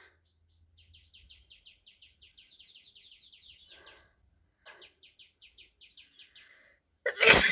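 Faint, rapid, high chirping from a bird, about seven or eight chirps a second, in two runs. A loud sneeze near the end.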